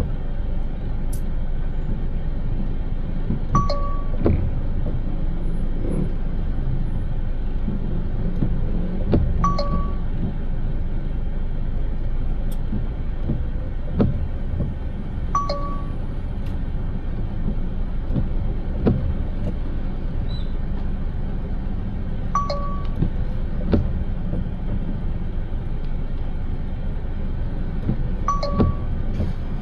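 Steady road and engine rumble heard from inside a moving car. Over it, a brief high squeak comes about every six seconds, with light knocks in between.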